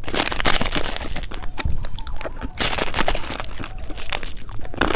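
Close-up eating of a purple foot-shaped candy with popping candy: irregular crunching and dense crackling clicks.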